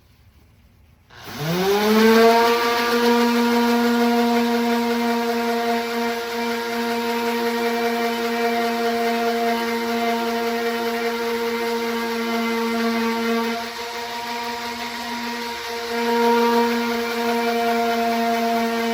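Electric orbital sander switched on about a second in, spinning up quickly to a steady whine and running on as it sands body filler and metal; its level dips for a couple of seconds near the end, then comes back.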